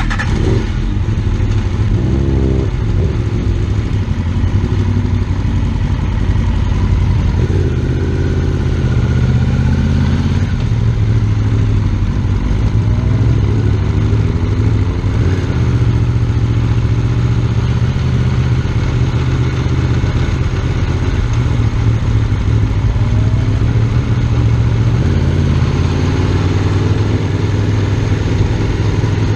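Superbike engine running steadily, its pitch rising and falling gently a few times.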